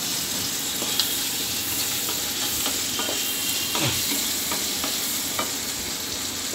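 Chopped small onions sizzling steadily in hot oil in a nonstick kadai while a wooden spatula stirs them, with short scrapes and taps of the spatula against the pan now and then.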